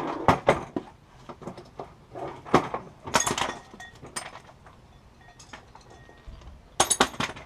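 Metal tools and parts clinking and knocking together in scattered sharp strikes: a couple right at the start, a cluster about three seconds in, and two more near the end.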